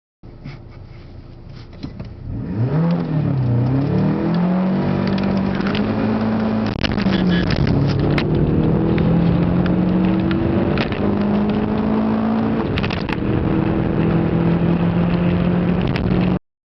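Volkswagen Polo Mk3's four-cylinder engine under hard acceleration. The engine note is quieter for the first two seconds, then loud, and its pitch climbs and drops back at gear changes about three, seven and twelve seconds in, with a few clicks and rattles over it. The sound starts and cuts off abruptly.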